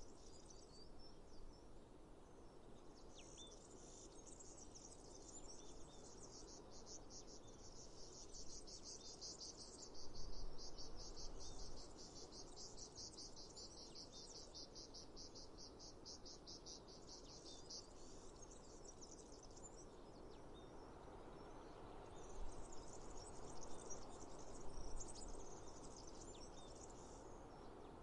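Insects chirping in a high, rapid, even pulse that fades out about two-thirds of the way through and returns a few seconds later, over a steady faint outdoor hiss. A few brief low rumbles come about a third of the way in and again near the end.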